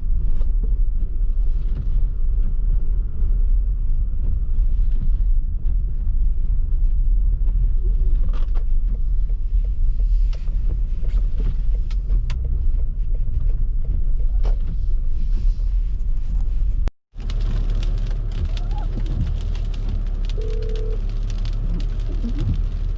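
Steady low rumble of a car driving on snowy streets. The sound drops out for an instant about two-thirds of the way through, then resumes with a little more hiss.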